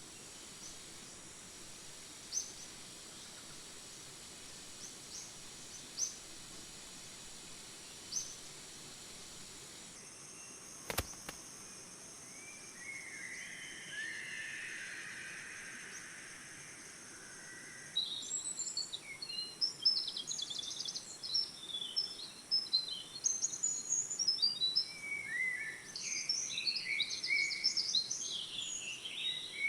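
Tropical forest ambience: a steady high insect drone with a few short chirps, a single sharp click about a third of the way in, then a busy chorus of many bird calls over the last third.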